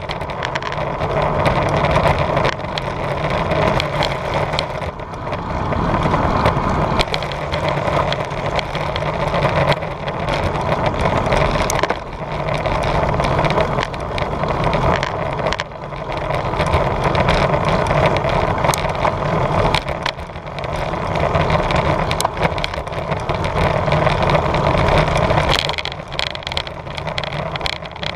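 Wind buffeting a GoPro microphone during a bicycle ride: a loud, steady rumble and rush that swells and eases every few seconds, with scattered sharp clicks and rattles.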